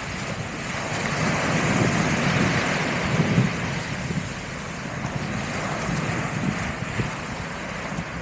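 Sea waves washing onto the beach, swelling to a louder rush about a second in and then easing, with wind buffeting the microphone in low gusty rumbles.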